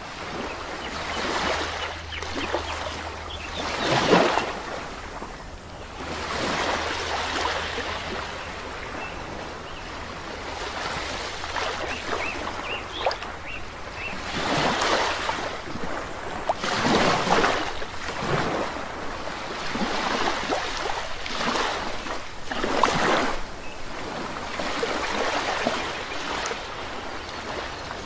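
Sea waves washing onto a shore, a rushing surge of surf every two to three seconds, the strongest about four seconds in.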